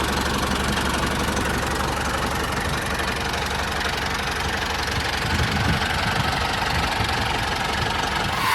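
Small engine running steadily, as on a DIY mini tractor.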